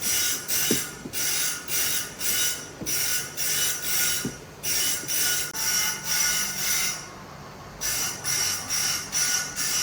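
A hand woodworking tool worked on wood in regular back-and-forth strokes, about two a second, each stroke a rasping scrape with a high ringing edge. The strokes pause for about a second some seven seconds in, then carry on.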